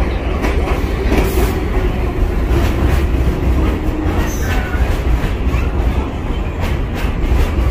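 New York City subway train running on the track: a heavy low rumble with steady clatter of wheels over rail joints, and a faint whine in the middle.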